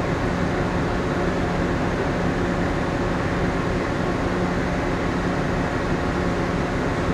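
Steady machinery and ventilation hum inside the moored cargo-passenger ship Ogasawara Maru: an even low rumble and hiss with a low steady tone and a few fainter higher ones, unchanging throughout.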